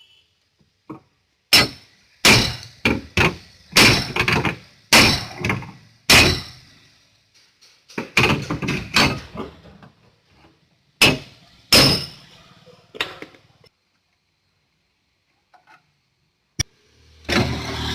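Hammer blows on the BMW's damaged boot-lid sheet metal: an irregular run of heavy knocks, sometimes in quick succession, each with a short ring, stopping after about 13 seconds.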